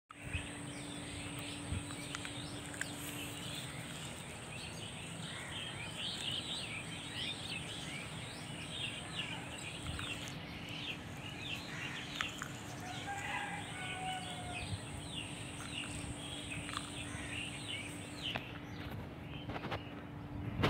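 Many small birds chirping in quick, short calls over steady outdoor background noise, with a steady low hum and a faint high whine that stops near the end.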